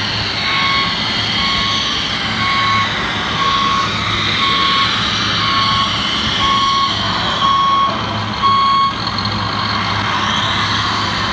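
RC truck's reversing alarm beeping: nine even beeps about a second apart that stop near the end, over a steady low engine hum.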